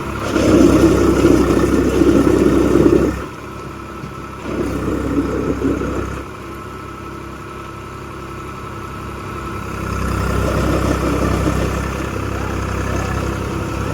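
Swaraj 834 XM tractor's three-cylinder diesel engine running. It is louder for the first three seconds, and again in two shorter stretches later on.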